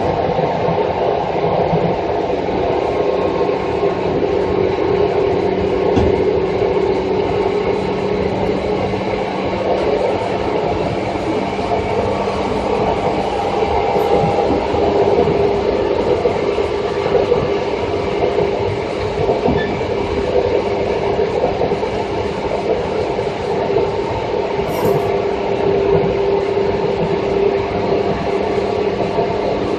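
Onboard running sound of a Seibu 2000-series electric train at speed: a steady rumble of wheels on rail with a steady hum.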